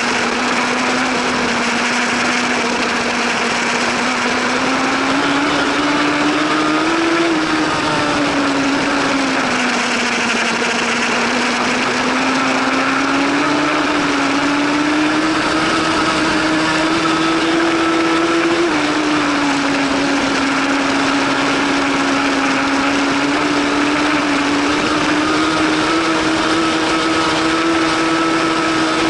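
1000 cc superbike engine running hard at high revs, its pitch slowly rising and falling, with a sudden drop in pitch about 19 seconds in.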